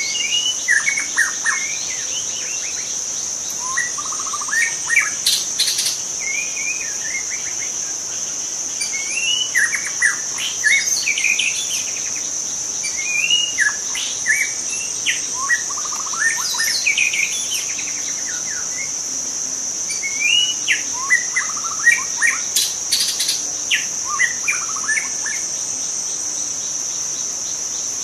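White-rumped shama singing in bursts of varied, quickly changing whistled phrases with short pauses between them, over a steady high-pitched insect drone.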